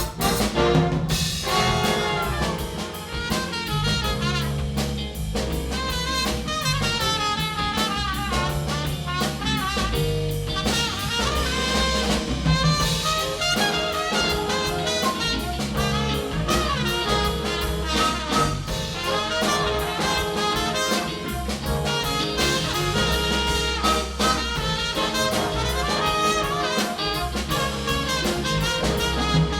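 Big band playing jazz: a brass section of saxophones, trumpets and trombones over a drum kit.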